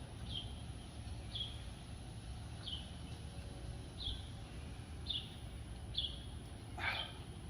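A small bird repeating a short, high, slightly falling chirp about once a second, with one longer, fuller call near the end, over a low steady outdoor rumble.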